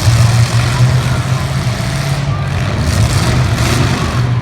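Demolition derby car engines running, a steady low drone under a dense wash of noise.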